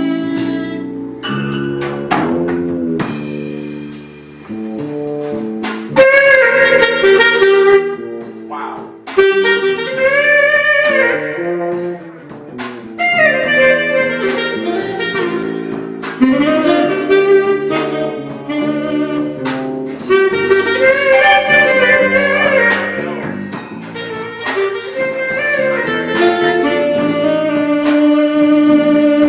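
Live jazz band playing an instrumental passage between sung verses: a lead melody line with sliding, bending notes over the band's accompaniment.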